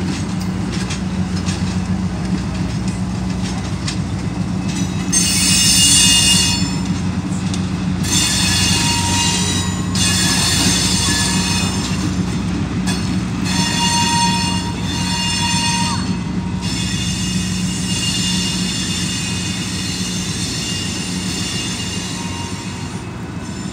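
Passenger train rolling slowly past, its wheels squealing on the rails in repeated high-pitched stretches, loudest about six seconds in, over a steady low hum and rumble.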